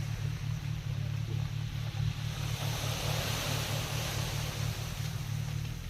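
An engine running steadily with a low, evenly pulsing rumble, over the hiss of sea surf.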